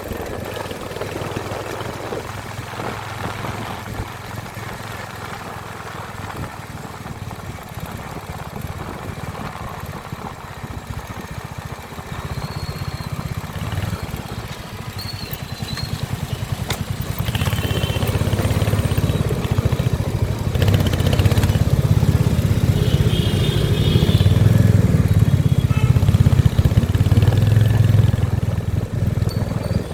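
Royal Enfield Hunter 350's single-cylinder engine running with a steady low note, getting louder a little over halfway through.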